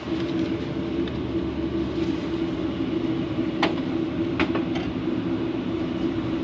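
Steady mechanical hum of a running machine, with one constant tone, and a few short clicks or knocks between about three and a half and five seconds in.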